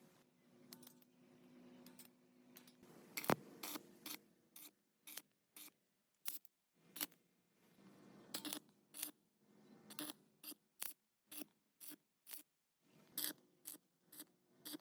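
A hand tool working in short, sharp strokes, about two a second and coming faster near the end, after a single loud click about three seconds in.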